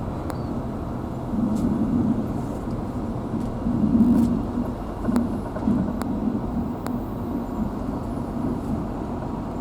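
Car driving along a rough road: a steady engine and road rumble that swells and eases every second or two, with a few faint ticks.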